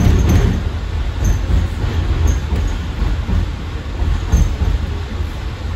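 AirTrain JFK train running along its elevated guideway: a steady low rumble of steel wheels on rail, with brief high wheel squeaks now and then.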